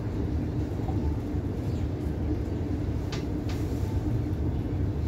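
Steady low hum inside a stationary Siemens Nexas electric suburban train, its onboard equipment running while it stands at the platform, with two short hissing sounds about three seconds in.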